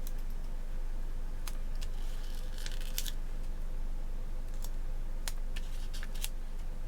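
Paper and sticker handling on a planner page: a few small clicks and taps, with a brief scratchy rustle about two to three seconds in. A steady low electrical hum sits underneath.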